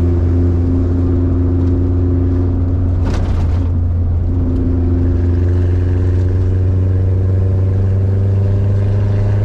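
1992 Subaru Sambar kei truck's engine running with a steady low hum, its pitch edging slightly upward in the second half. A brief rushing noise cuts in about three seconds in.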